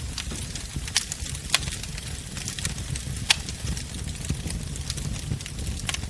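Wood fire burning: a steady low rumble of flames with sharp, irregular crackles and pops, the loudest about a second, a second and a half and three seconds in.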